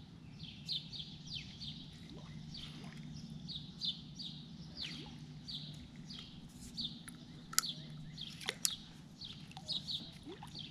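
Songbirds chirping: a long run of short, high, down-slurred notes, about three a second, over a low steady hum, with a few sharp clicks about two-thirds of the way through.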